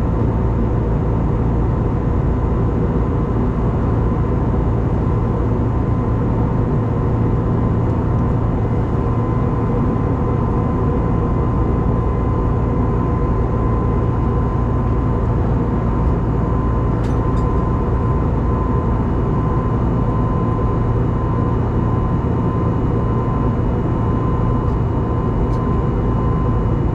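Steady cabin noise of an Airbus A320neo in flight: an even rush of engine and airflow noise with a low drone and a faint steady hum over it.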